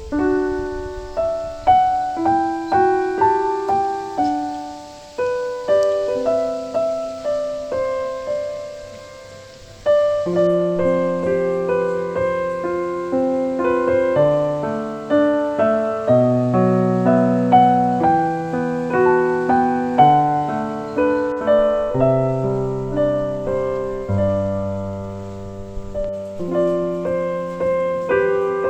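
Background piano music: a gentle solo piano melody, with a quieter passage about a third of the way in before fuller chords return.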